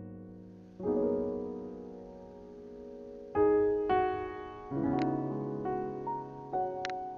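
Slow, gentle piano music: notes and chords struck every second or so and left to ring out.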